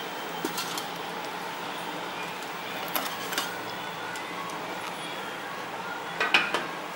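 A few light clinks and taps of metal kitchen utensils and vessels, coming singly and in small clusters, over a steady background hiss.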